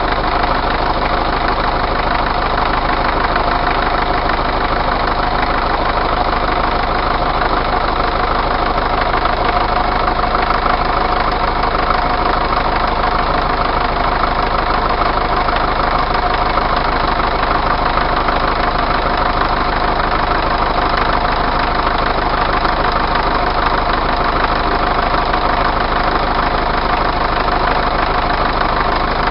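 Truck engine idling steadily, with a faint steady whine running through it.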